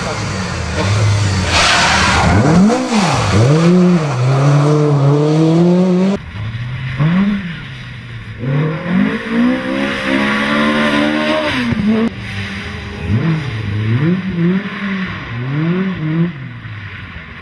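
Ford Escort Mk2 rally car engine revving hard and dropping away again and again as the driver accelerates, lifts and changes gear through corners, in three separate passes joined by abrupt cuts.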